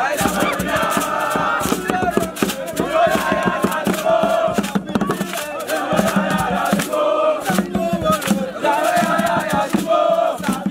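A group of voices singing a chant together over fast, steady rhythmic percussion.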